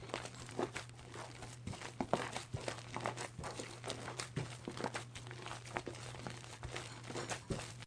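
Shaving foam being mixed by hand: dense, irregular sticky crackling and popping, over a steady low hum. The sound cuts off suddenly at the end.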